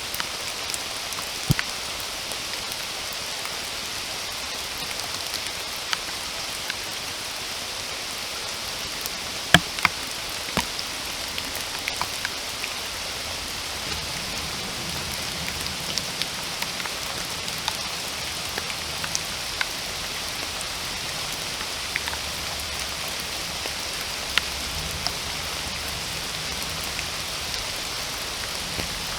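Steady rain, an even hiss with scattered close drops striking sharply; a faint low rumble joins about halfway through.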